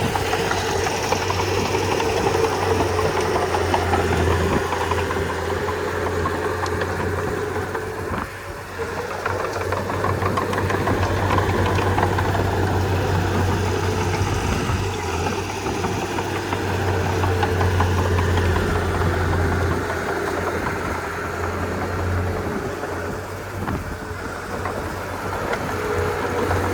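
Diesel engine of a Komatsu D31P bulldozer running steadily as it works, with a deep hum that eases off briefly about eight seconds in and again near the end.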